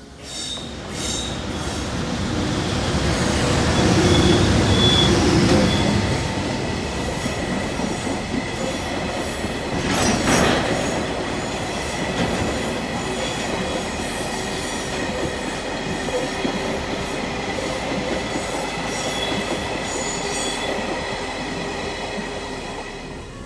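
Freight train of Taki 1000 tank wagons passing close by. The wheels run on the rails in a steady rumble, with thin high squealing tones above it. It is loudest about four to six seconds in, with a short sharp surge about ten seconds in.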